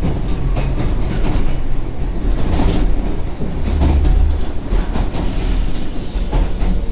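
Echizen Railway train running along the track, heard from on board: a steady low rumble of the wheels on the rails with scattered knocks from the track.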